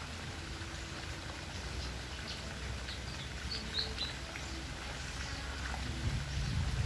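Outdoor ambience of faint, short, high bird chirps scattered over a low steady rumble.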